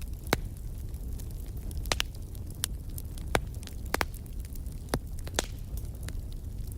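Burning firewood crackling: irregular sharp pops and snaps, a few every second, over a low steady rumble of the fire.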